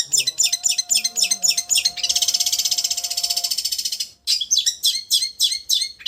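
Long-tailed shrike (cendet) song. It starts with a run of quick, sharp, high chirps, then goes into a fast, even trill, the 'getar' vibrating song, which lasts about two seconds. After a brief break the sharp chirps resume.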